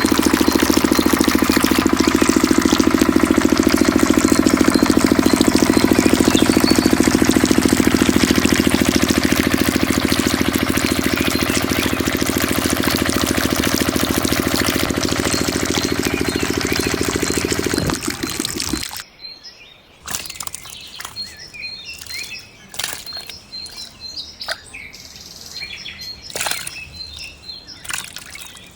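A miniature diesel-engine water pump runs steadily, then winds down and cuts off abruptly about 18 seconds in. After it stops, birds chirp and there are scattered small clicks and knocks.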